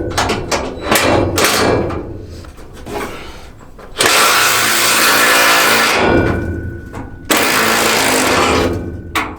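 Several sharp metal knocks in the first couple of seconds, then a power tool runs in two bursts of about two seconds each, one starting about four seconds in and one about seven seconds in. Each burst starts and stops abruptly.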